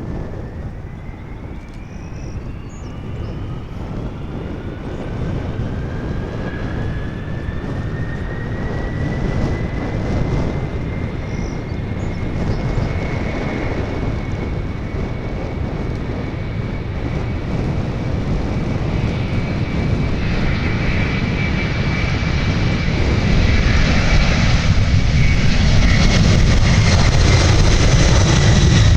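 Jet airliner engines whining over a low rumble. The whine rises in pitch over the first ten seconds and then holds steady, while the noise grows steadily louder.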